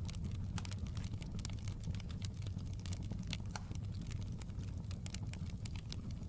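Fireplace fire crackling, with many irregular small pops and snaps over a steady low rumble.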